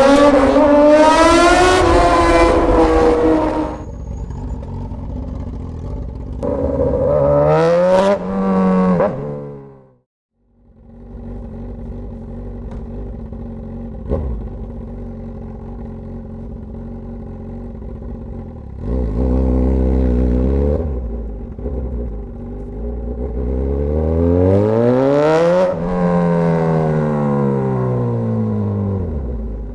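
Straight-piped Suzuki GSX-S1000 inline-four motorcycle engine, loud and unmuffled: it starts at high revs, settles to a steady idle, and is blipped up and down several times, with a short break to silence about a third of the way in. Near the end the revs climb in one long rise and then fall away slowly.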